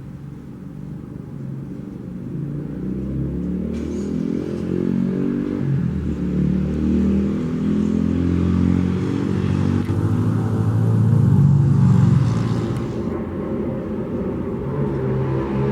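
Low engine rumble that grows steadily louder, peaking about twelve seconds in and easing off slightly after.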